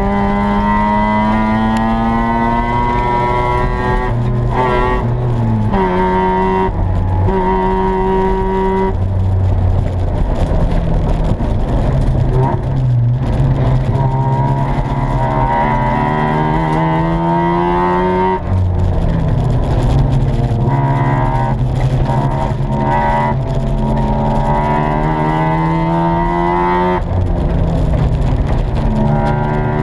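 Mazda RX-7's 13B rotary engine heard from inside the cabin while racing on track: its pitch climbs steadily under acceleration and drops back sharply several times at gear changes, with some choppy lifts off the throttle in the first few seconds.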